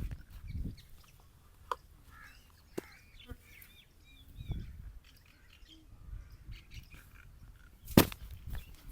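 Small birds chirping in the background, with scattered clicks, low thumps, and one sharp knock about eight seconds in.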